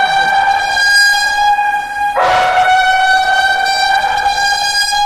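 Civil-defence rain alert siren sounding a loud, steady, harsh electronic tone, its pitch shifting briefly about two seconds in. It is the warning signal for heavy rain and landslide risk, ahead of a voice message telling residents to go to safe places.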